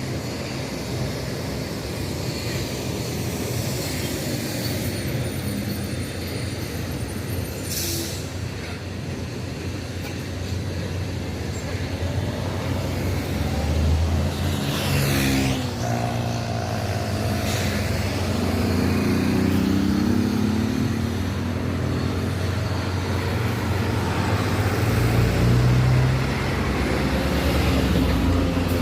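Cessna 152's four-cylinder Lycoming engine and propeller running at takeoff power, growing louder, with the pitch shifting in the second half.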